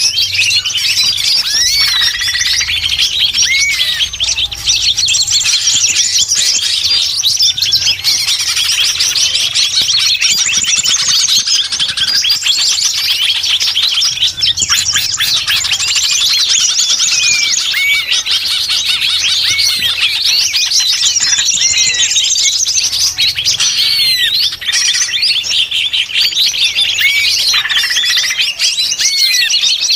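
Busy, continuous chatter of many small songbirds chirping and calling at once, a small-bird lure recording. Rapid high chirps overlap throughout, with short hooked notes repeating every couple of seconds.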